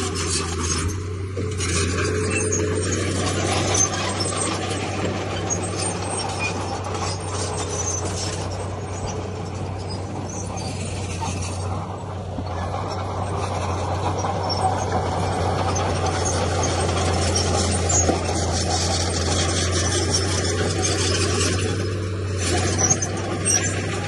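Heavy diesel earthmoving machinery running, with a steady low engine drone and continual metallic clanking and squealing.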